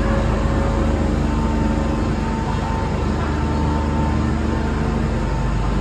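Steady low rumble and hum of an electric train standing at a station platform, with faint tones coming and going above it.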